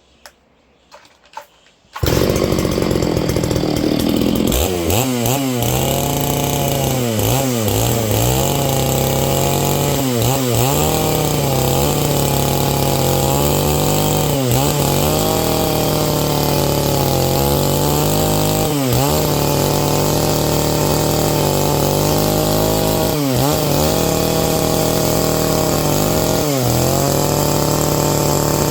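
Stihl MS660 two-stroke chainsaw running at full throttle while rip-cutting a pine log lengthwise, its engine pitch dipping briefly under load every few seconds and recovering. It comes in abruptly about two seconds in, after a few faint clicks.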